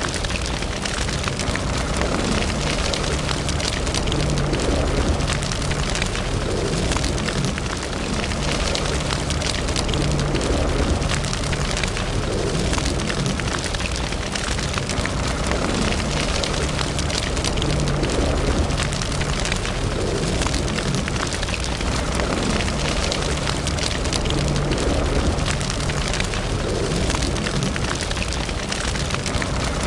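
Wood fire burning in a fireplace, crackling with many small pops over a steady low rumble of the flames.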